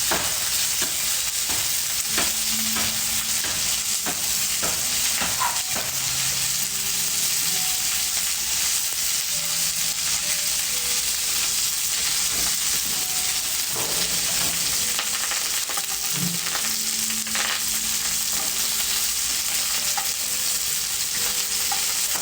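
Food frying in hot oil: a steady sizzle with scattered sharp pops.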